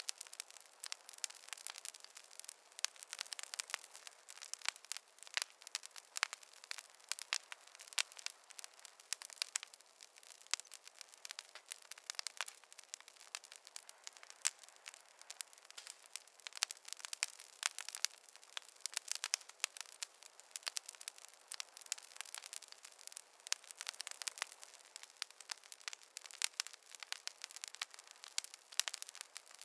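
Wood fire crackling: a dense, irregular run of sharp pops and snaps from burning logs, with little low rumble.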